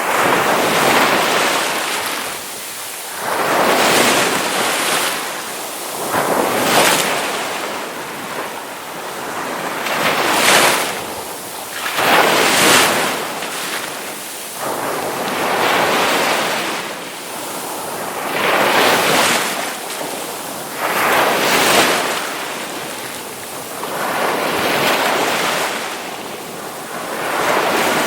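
Ocean surf: waves breaking and washing in, a rushing swell about every three seconds.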